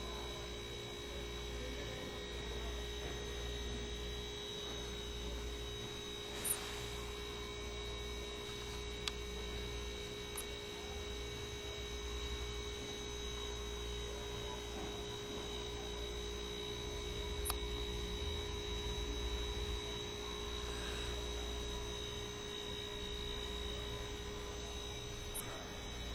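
Steady electrical hum with a low drone and a few fixed higher tones, broken by a few faint short clicks.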